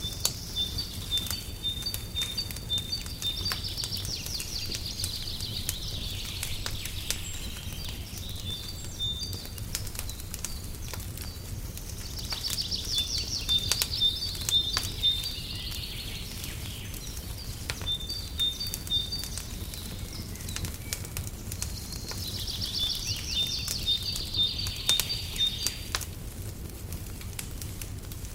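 Fireplace crackling with scattered sharp pops over a low steady rumble, while a songbird sings a high phrase of repeated notes and a fast trill three times, about ten seconds apart.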